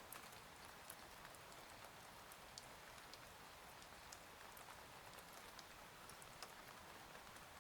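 Faint, steady rain with scattered individual drops ticking through it.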